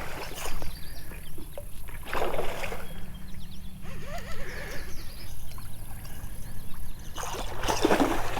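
Water splashing and sloshing in three bursts, the loudest near the end: a hooked catfish thrashing at the surface of the creek as it is fought in.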